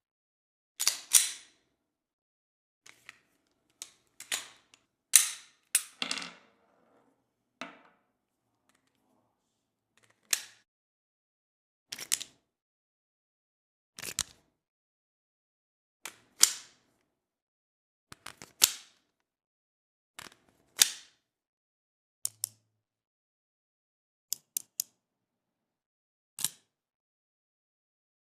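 A series of short, sharp mechanical clicks and snaps, one every second or so with silence between; some come in quick pairs or triplets.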